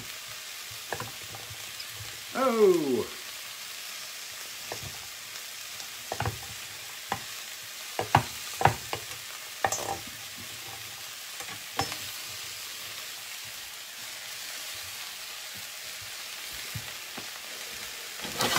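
Diced root vegetables sizzling steadily in a cast-iron skillet, with scattered sharp knocks on a wooden cutting board as squash is cut into cubes. A short exclamation about two and a half seconds in, and the sound swells near the end.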